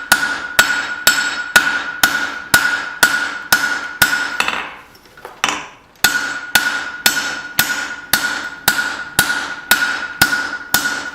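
Hand hammer striking hot steel on the horn of an anvil, about two blows a second, with the anvil ringing a steady high tone between strikes. This is drawing out the thickness of a small hatchet blade. A little before halfway the hammering stops for about a second and a half, then resumes at the same pace.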